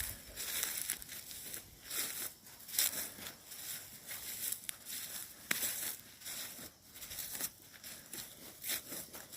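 Footsteps crunching through dry leaf litter and twigs on a woodland floor, one crisp crunch at each step at an unhurried walking pace.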